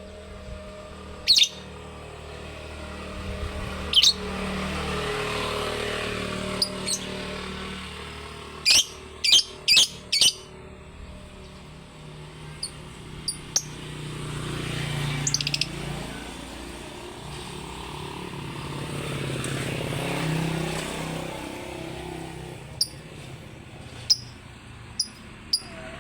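Pet lovebird giving loud, sharp, very short chirps, some single and some in quick runs of three or four, with gaps of several seconds between. A low rumble swells and fades underneath a few times.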